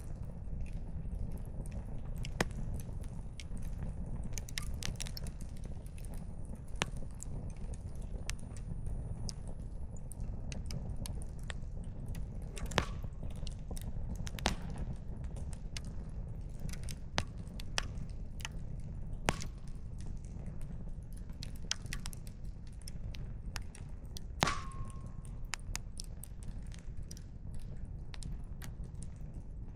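Wood fire crackling: irregular sharp pops and snaps of burning firewood over a steady low rumble, one pop about 25 seconds in ringing briefly.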